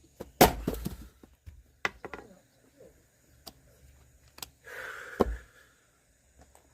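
Firewood being split with an axe: a sharp wooden crack about half a second in followed by a clatter of falling pieces, a few scattered knocks, and a second strike about five seconds in.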